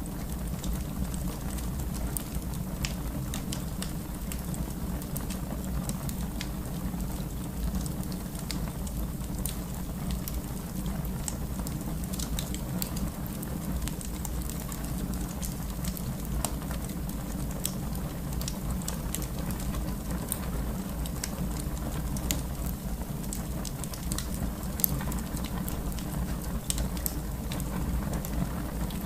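Wood fire burning in a fireplace: frequent small crackles and pops over a steady low rumble.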